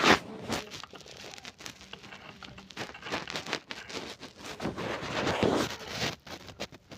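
Irregular rustling and crackling with scattered clicks and knocks, like something being handled.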